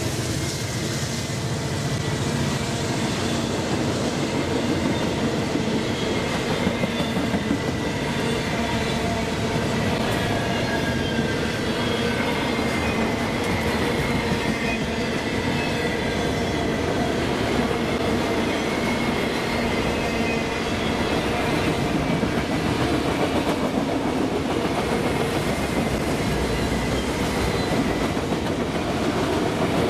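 Autorack freight cars rolling past close by: the steady rumble and clatter of steel wheels on the rails, with faint thin squealing tones from the wheels above it.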